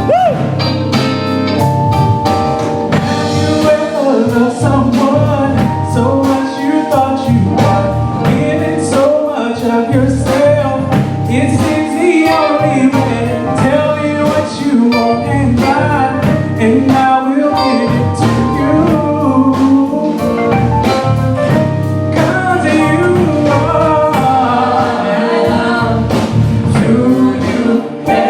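A singer performing an R&B song, the lead vocal carried over a steady beat with drums and guitar.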